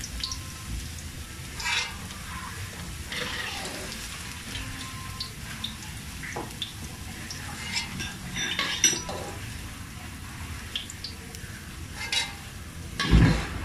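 Potato cubes frying in hot oil in a wok: a steady sizzle, with a metal spatula scraping and clinking against the pan now and then and a louder clatter near the end.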